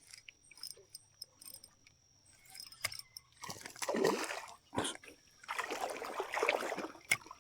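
Light clicks and rattles, then several bursts of water splashing from about three and a half seconds in, as a hooked fish is brought in at the surface.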